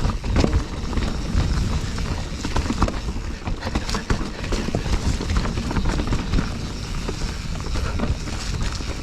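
Mountain bike rolling over rough, rocky trail: tyres and frame rattling with many irregular knocks and clatters over a low wind rumble on the camera microphone.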